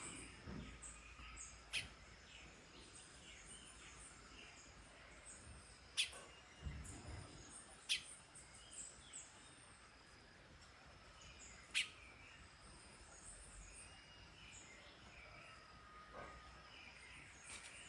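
Female flame-rumped tanager giving sharp, very brief call notes, about four of them spaced through, over scattered faint high chirps of other birds.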